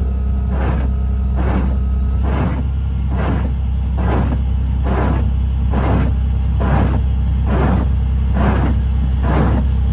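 Steady low engine and road drone heard inside a moving vehicle's cabin, with an even swishing stroke repeating a little faster than once a second.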